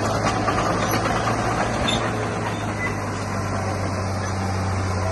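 Heavy earthmoving machine's diesel engine running steadily with a low, even drone.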